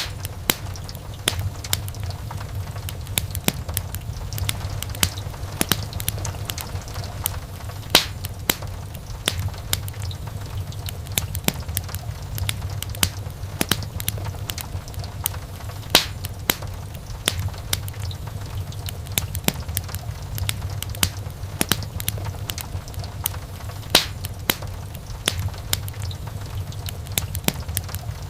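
Wood fire crackling: frequent sharp snaps and pops of burning logs over a steady low rumble, with a few louder pops standing out.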